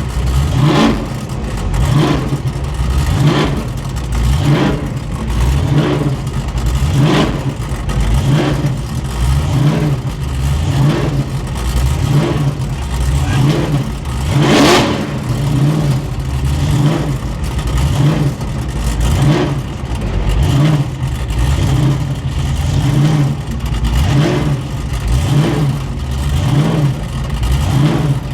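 Holden HG wagon burnout car's engine running loudly at cruising pace, surging in a regular pulse about once a second, with a sharper, brighter surge about halfway through.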